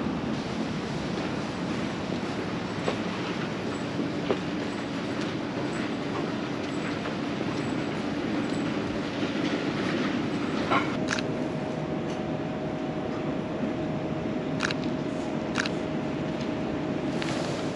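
Train running past: a steady rumble with a held whine that steps up to a higher pitch about eleven seconds in, and a few sharp clicks.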